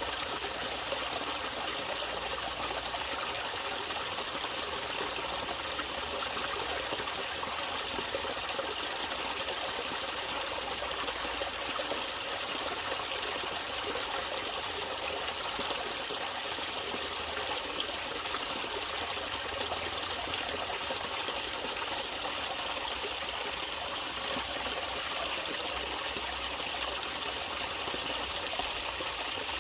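Natural running water trickling steadily, an even, unbroken rush with no sudden changes.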